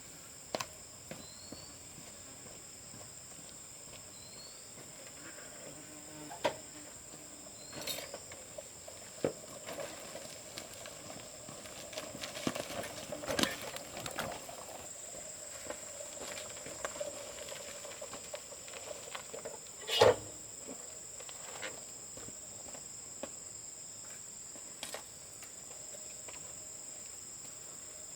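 Insects calling in a steady, high-pitched, unbroken note, with scattered faint clicks and one louder knock about twenty seconds in.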